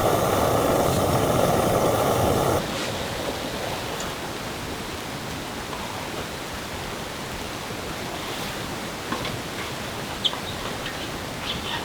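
Steady rushing noise, loud for the first two and a half seconds, then cutting off suddenly to a softer even hiss. Scattered faint ticks come in near the end.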